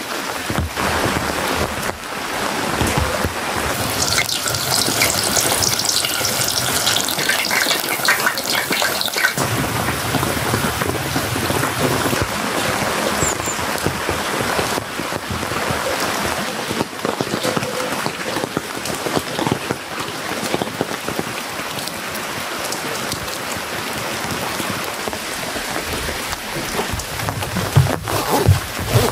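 Steady rain falling, louder and hissier for a stretch between about four and nine seconds in.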